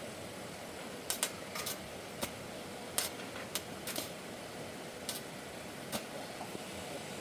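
Scattered sharp clicks and light knocks, about a dozen at irregular intervals, over a steady background hiss.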